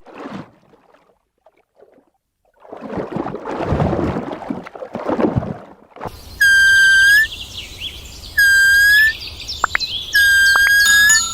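A rough, noisy animal sound, then three loud, long whistled calls, evenly pitched and each lifting slightly at its end, with a few sharp clicks between them.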